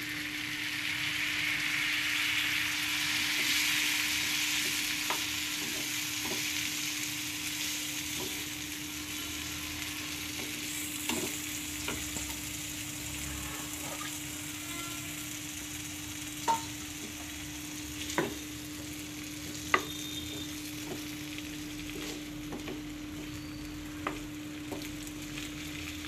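Diced potatoes sizzling in hot oil in a non-stick pan, loudest just after they go in and then settling to a steady sizzle. A spatula stirs them, with now and then a sharp knock against the pan.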